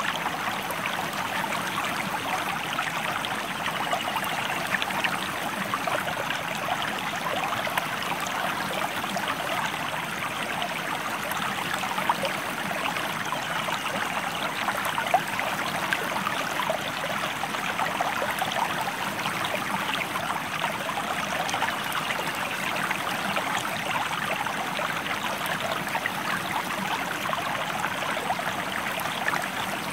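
A stream flowing steadily: a constant rushing babble of water with many small splashes and bubbles.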